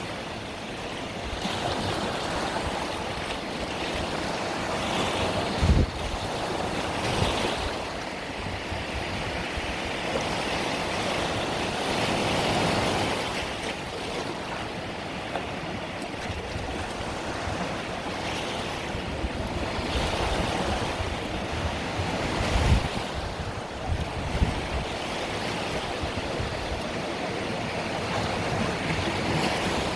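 Small Mediterranean sea waves breaking and washing up the shore, a steady surf wash that swells and eases every few seconds. Two brief low thumps come about six seconds in and again past the twenty-second mark.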